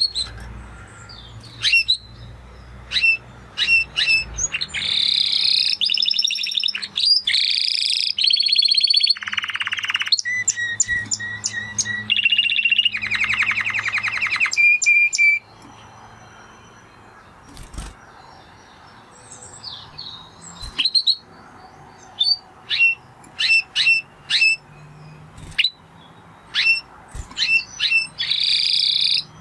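Spanish Timbrado canary singing: about ten seconds of rapid trills and rolling phrases, then scattered short chirps and notes, and another brief trill near the end.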